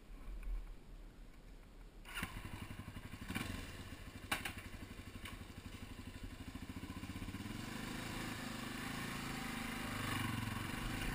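Yamaha TTR250 single-cylinder four-stroke engine starting up about two seconds in, then running with a couple of sharp knocks shortly after, growing louder over the last few seconds.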